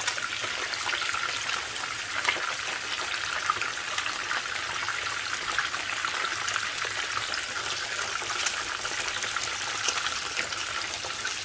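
Snapper fish frying in hot oil in a pot: a steady sizzle with scattered crackles and a few sharper pops.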